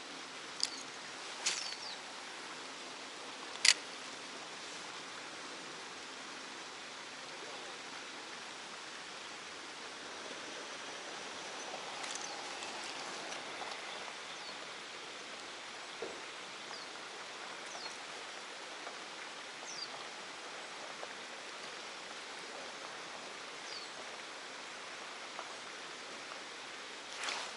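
Steady rush of running water in the open air, with a few sharp clicks in the first four seconds, the loudest about four seconds in. Faint, short, high chirps come and go over the noise.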